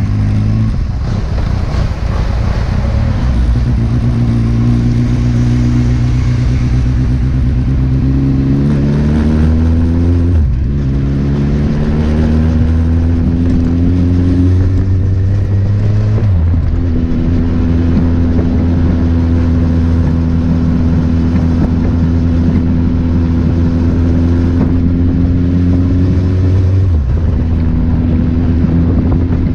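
Kawasaki Z800's inline-four engine accelerating through the gears, its pitch climbing and dropping at upshifts about 10 and 16 seconds in. It then runs at a steady speed, with one more shift near the end.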